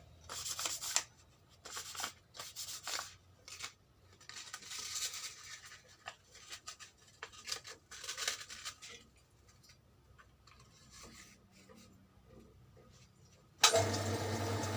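Sandpaper rustling and scraping in irregular strokes as it is handled and rubbed, going quiet for a few seconds. Near the end a power tool's motor starts suddenly and runs steadily.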